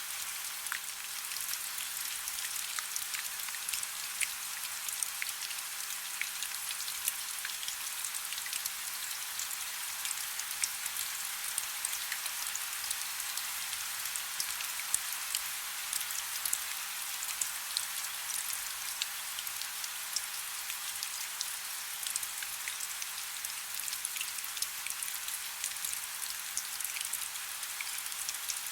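Soft steady rain, a hiss dense with fine pattering drop ticks.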